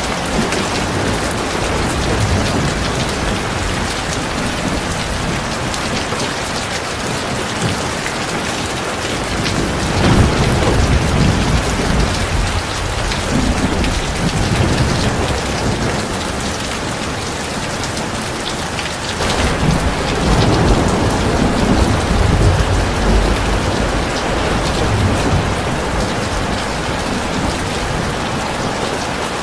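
Heavy rain falling steadily, with low thunder rumbling twice, about a third of the way in and again past the middle.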